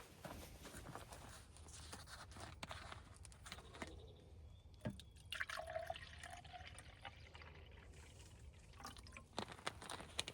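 Faint liquid dripping and pouring among many small clicks and handling noises.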